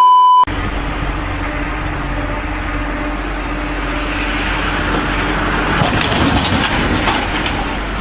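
A short, loud beep tone, then a vehicle engine running steadily with a constant hum, growing busier and rattling between about four and seven seconds in.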